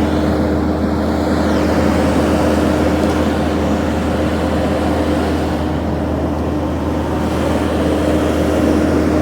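Vehicle engine running steadily, a constant hum over an even rumble.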